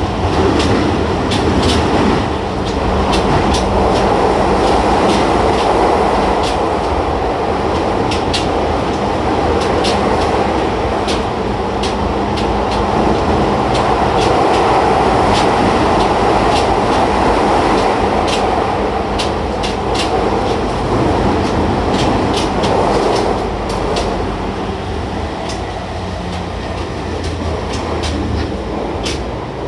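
Running noise of a Toei 10-300 series subway train, an early-batch car with a Mitsubishi IGBT inverter, travelling at speed: a steady loud rumble of wheels on rail with many sharp clicks over rail joints. It eases off a little near the end.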